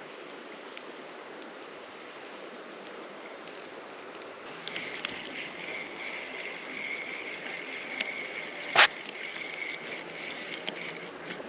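River water running steadily. From a little under halfway a steady whirring tone joins and runs nearly to the end, with one sharp click, the loudest sound, about three quarters of the way through.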